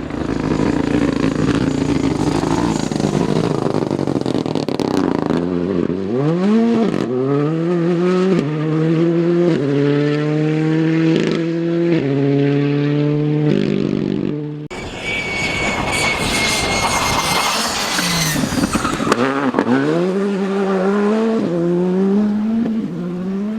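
Rally car engines at full effort. The first car accelerates hard, its note climbing and dropping back through several quick upshifts. After an abrupt change, a second rally car passes with a steady high whine, its engine revving up and down.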